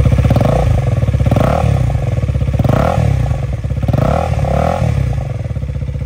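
KTM Duke 250's single-cylinder four-stroke engine running just after starting, blipped several times so its pitch rises and falls, then settling to a steady idle near the end.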